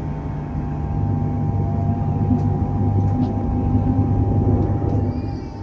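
Interior sound of a suburban electric passenger train running: a steady low rumble with a constant electrical hum. A rising whine comes in near the end.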